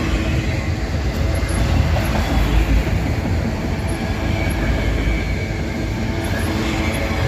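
Freight train of loaded auto rack cars rolling past, the wheels on the rails making a steady, loud rumble.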